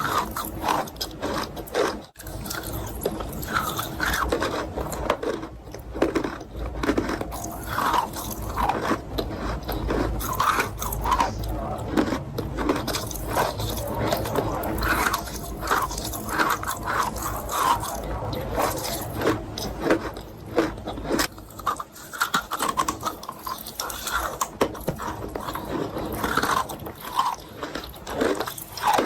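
Close-miked biting and chewing of eating chalk: a dense run of irregular crunches, with a brief drop about two seconds in.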